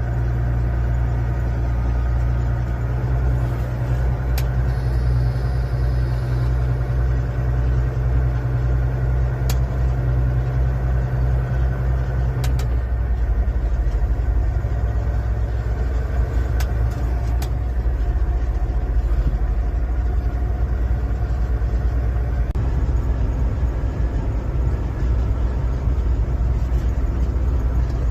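Steady low drone of a motor vehicle's engine and road noise while driving, with a few faint clicks. The deepest hum eases off about halfway through.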